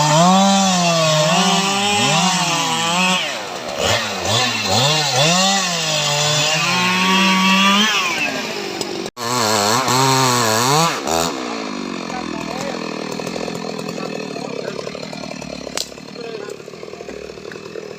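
Stihl MS 881 two-stroke chainsaw running hard, its engine pitch repeatedly dipping and recovering as it cuts through teak wood. There is a brief break about nine seconds in, and after about eleven seconds the saw runs quieter and steadier.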